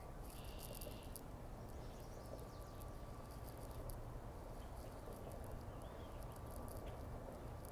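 Steady outdoor background noise: a low rumble with faint high ticking and a few faint chirps.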